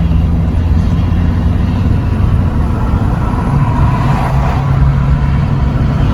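Steady low drone of a pickup truck carrying a truck camper, engine and road noise heard from inside the cab while driving.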